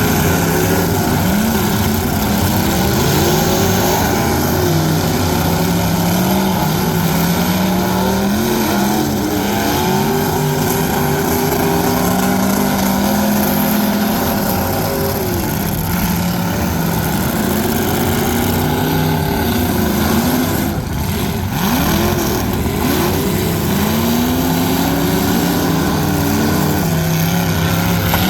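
Loud truck engines running and revving, their pitch repeatedly rising and falling, with several revs overlapping.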